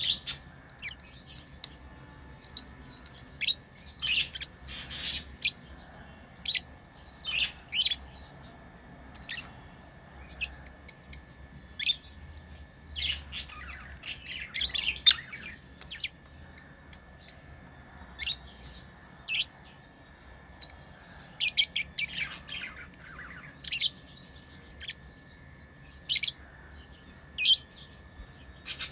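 Pet lovebirds chirping: short, sharp, high chirps in irregular clusters, sometimes several in quick succession, over a faint steady high tone.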